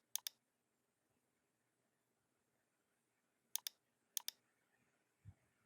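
Computer mouse clicking: a sharp double click-clack about a quarter second in, then two more about three and a half and four seconds in, each a press and release, over near silence.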